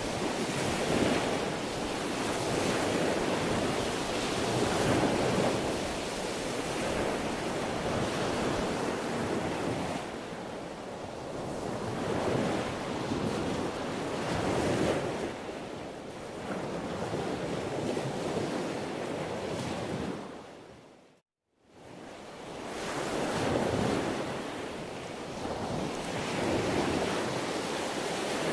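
Sea waves washing in and breaking, a continuous surf that swells and eases every few seconds. About three-quarters through, the sound fades out to silence for a moment and then fades back in.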